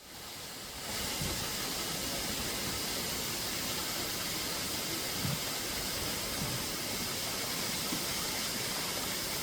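Waterfall: a steady rush of falling water that fades in over the first second.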